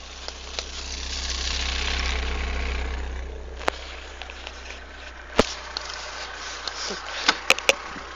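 Lada VAZ-21074 four-cylinder engine running at idle as a steady low hum. A louder rushing swell rises and fades over about two seconds near the start, and several sharp clicks come in the second half.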